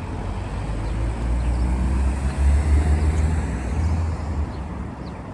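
A motor vehicle passing close by in street traffic: a deep engine rumble that swells to its loudest about two and a half seconds in, then fades away by about four and a half seconds.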